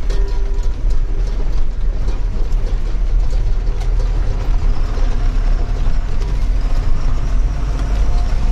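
Truck driving, its engine running as a steady low drone, with scattered rattles and knocks from the vehicle's body.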